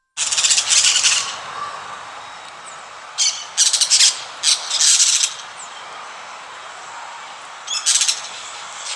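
Birds calling: repeated short, harsh, high-pitched chirping bursts in clusters over a steady outdoor background hiss, with a few faint thin whistles between them.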